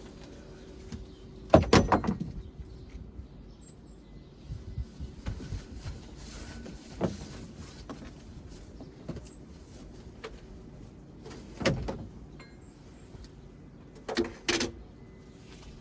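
Heavy metal clanks and knocks as a boat engine is pulled out of its hull. The first and loudest comes about two seconds in and rings briefly, followed by single knocks, then a quick double clank near the end, over a faint steady hum. Birds chirp faintly.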